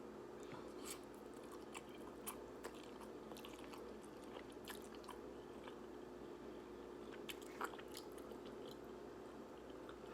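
A person eating instant ramen noodles close to the microphone: scattered wet mouth clicks and chewing sounds, the sharpest a little past halfway, over a steady low hum.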